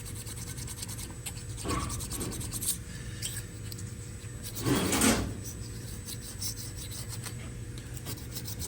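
Razor blade scraping leftover gasket material off a refrigeration compressor head in light strokes, the loudest about five seconds in, over a steady low hum.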